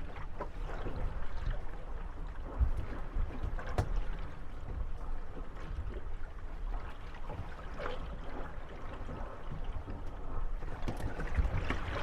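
Moored gondolas rocking on the waves: water lapping and sloshing against the wooden hulls, with scattered knocks and creaks as the boats bump against each other. The knocking grows busier near the end.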